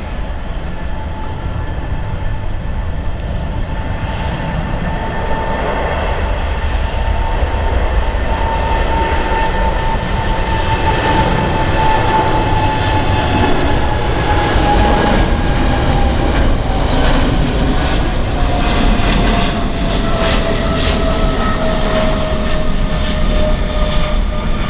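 Jet airliner engines whining over a heavy rumble, the whine falling slowly in pitch as the noise grows louder through the middle.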